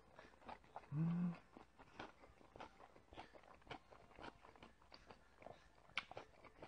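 Close-miked chewing and mouth sounds from a mouthful of bibimbap, many small wet clicks. About a second in comes a short low hummed "mm" from the eater, and near the end a single sharp click.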